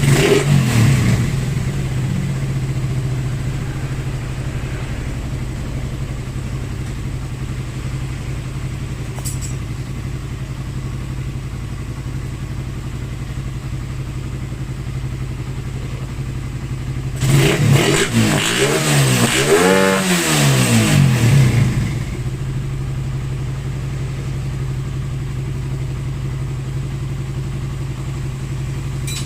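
Suzuki Raider 150's single-cylinder four-stroke engine idling steadily, revved up and back down once for a few seconds about two-thirds of the way through.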